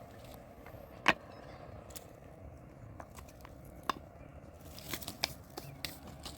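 Scattered sharp clicks and taps, one loud click about a second in and a few quicker ones about five seconds in.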